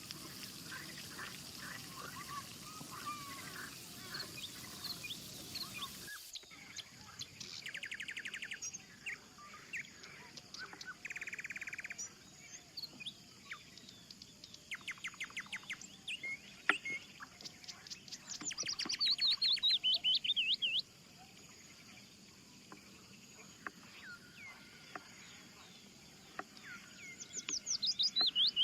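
Several wild birds singing and calling in woodland: short chirps, buzzy trills, and twice a loud warbling phrase that falls in pitch. For the first few seconds a steady hiss lies under the calls, then it stops abruptly.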